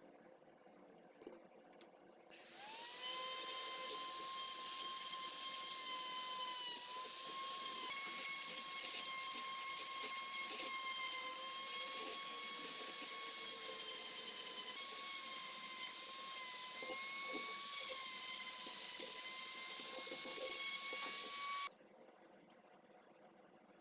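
A small high-speed power tool spins up about two seconds in with a rising whine, then runs steadily for nearly twenty seconds, its pitch wavering slightly now and then, before stopping abruptly.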